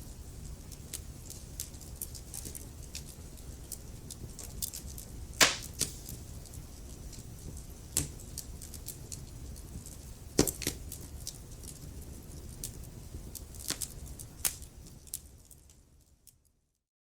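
Wood fire crackling in a fireplace: a steady low rumble and hiss of burning logs with frequent sharp pops, two of them much louder, about five and ten seconds in. The sound fades out near the end into silence.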